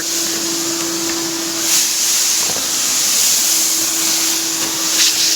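Vacuum cleaner running steadily, a loud even rush of air over a constant motor hum, sucking up bird seed through a makeshift screen on the nozzle that leaves the rocks behind; a few faint ticks as bits are drawn in.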